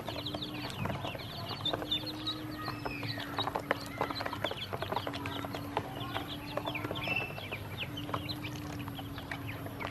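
A crowd of ducklings peeping, a dense chorus of short, high, falling peeps, with scattered clicks. A steady low hum runs underneath and breaks off briefly a few times.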